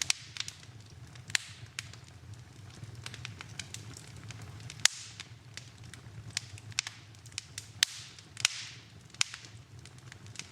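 Fireplace fire crackling: irregular sharp pops and snaps, a few trailing a short hiss, the loudest about five seconds in, over a low steady rumble.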